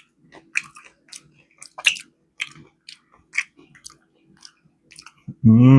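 Close-miked chewing of fried chicken: scattered short crunchy, wet mouth clicks. Near the end comes a loud, satisfied "mm" hum.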